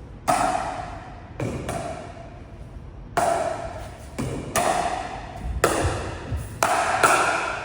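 Pickleball paddles striking a hard plastic pickleball back and forth in a dink and volley drill: about seven sharp, ringing pops, roughly one a second.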